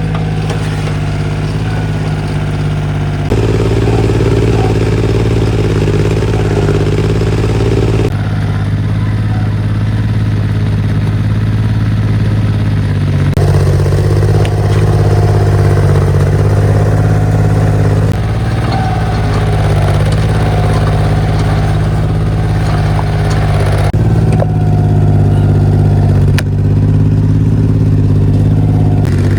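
Mini excavator's diesel engine running with a steady drone. Its pitch and loudness shift abruptly several times.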